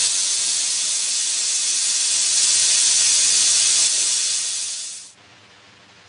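Jeweler's soldering torch flame hissing steadily while it heats a ring shank seam, then cutting off suddenly about five seconds in as the torch is shut off.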